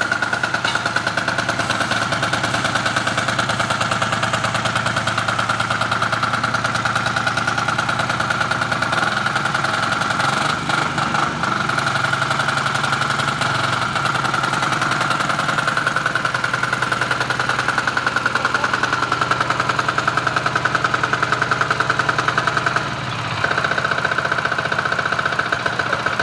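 Diesel engine of a baby roller running steadily with a rapid, even knocking beat. The note shifts a little in the middle and dips briefly about three-quarters of the way through.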